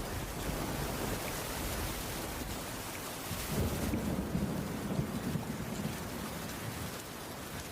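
Heavy rain falling steadily on a wooden cabin roof. About three and a half seconds in, a low rumble swells for about two seconds, then fades back into the rain.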